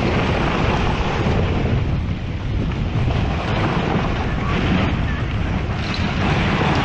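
Loud, steady rushing roar of a mud and rock eruption, with heavy wind buffeting on the microphone.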